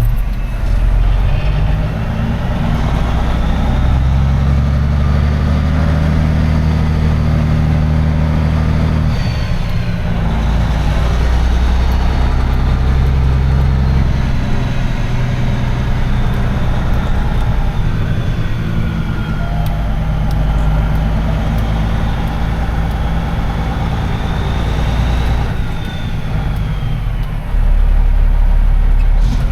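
Semi-truck diesel engine running under way, its low steady note breaking and changing pitch a few times.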